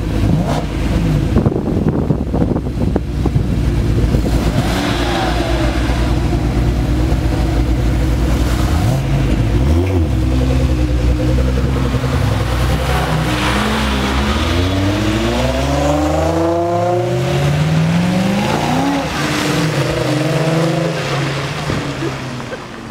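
Sports car engines revving and accelerating, with several rising and falling sweeps in engine pitch as the cars pull away and pass.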